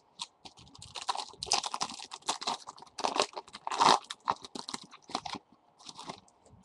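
Trading-card pack wrapper crinkling and tearing as the pack is opened: a dense, irregular run of crackles that thins out about five and a half seconds in.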